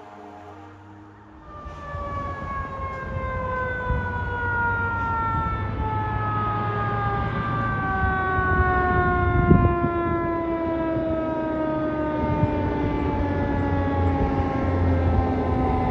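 A fire truck's mechanical siren winding down, its wail falling slowly and steadily in pitch, over the low rumble of the truck's engine. A single short thump sounds about halfway through.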